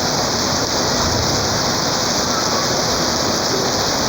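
Rain falling steadily: a loud, even hiss.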